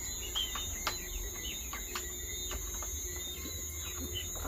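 Birds chirping in many short calls over a steady high insect drone, with a few sharp taps scattered through.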